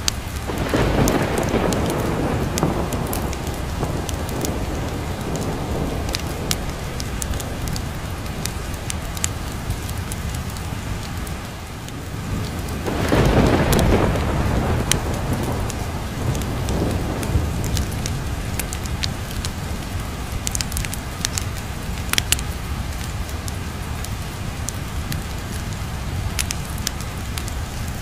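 Steady rain under two rolls of thunder: one breaks right at the start and fades over about three seconds, and a second swells about 13 seconds in and dies away. Scattered sharp crackles from a fireplace sit over the rain.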